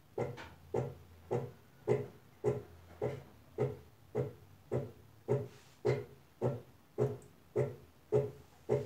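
Brastemp Advantech Wash washing machine agitating on its wool/extra-delicate cycle: the drive makes a short swishing stroke through the water at a steady rhythm, a little under two strokes a second.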